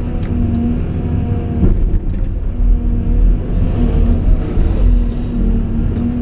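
Caterpillar 349E hydraulic excavator's diesel engine running steadily, with a steady whine that drops out and returns and a couple of short knocks about two seconds in.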